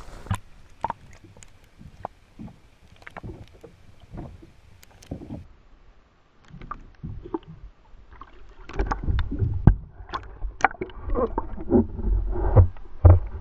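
Scattered light knocks and clicks of fishing gear being handled in a small boat. They grow busier and louder in the second half, with low thumps and rumble.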